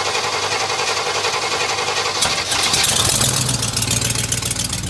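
1988 Chevy R30's 350 V8 running just after a cold start. About two seconds in the note changes and a fast exhaust ticking comes up. The owner puts the ticking down to broken-off air-injection tubes on the exhaust manifolds, which makes it sound like a broken manifold.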